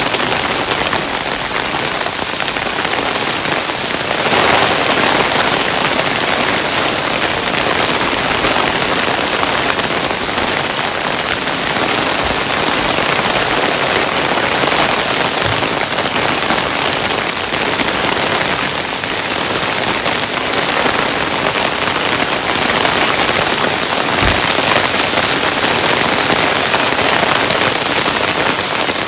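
Hailstones falling steadily, a dense patter of many small hits with now and then a sharper knock.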